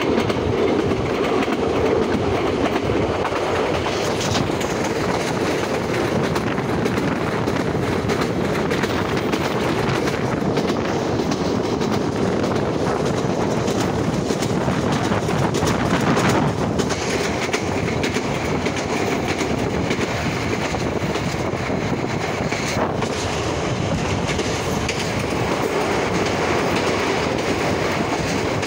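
Passenger train running at speed, heard from an open carriage window: a steady rumble from the coaches with a rapid clickety-clack of the wheels over the rail joints.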